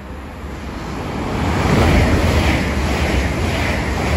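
Five-car GWR Class 800 IET train passing at speed, its noise building over the first two seconds and then holding steady.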